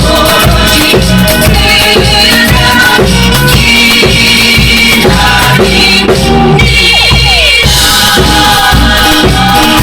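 A drum kit played along to a recorded pop song with a sung vocal, drum hits falling on a steady beat throughout.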